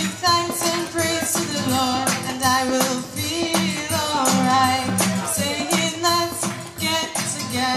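A woman singing a song to guitar accompaniment, the guitar strummed in a steady rhythm under her melody.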